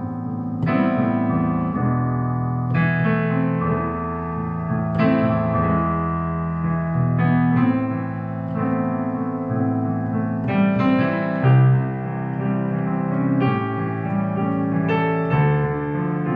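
Instrumental song music played on a keyboard with a piano sound, new chords struck every second or two over a held bass line.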